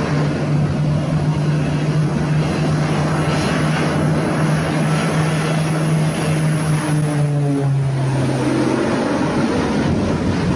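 Propeller aircraft engine running with a steady drone; its pitch drops slightly about seven and a half seconds in.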